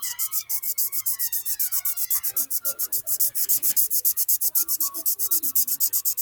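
Rapid back-and-forth colouring strokes on paper, a steady scratchy rubbing at about eight strokes a second.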